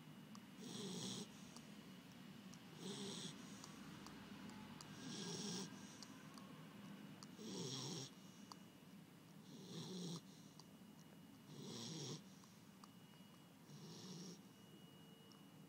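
A sleeping dog snoring softly, a regular snore about every two seconds.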